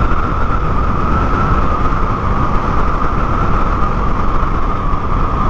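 Motorcycle riding at speed, its engine running steadily with a constant whine, under heavy wind rumble on the microphone.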